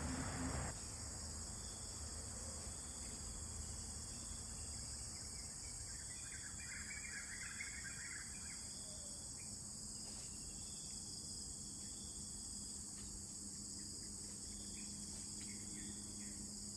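Steady, high-pitched chorus of insects, with a short run of bird chirps about six to eight seconds in. A brief louder noise cuts off within the first second.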